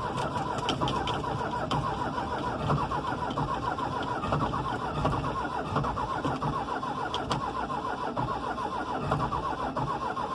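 Starter motor cranking a cold Cummins diesel engine, a fast steady mechanical rhythm. The starter's mounting bolts are stripped.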